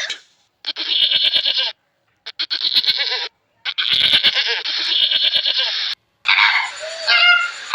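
Goat bleating: three separate quavering bleats, each cut off abruptly with silence between. A different animal call starts near the end.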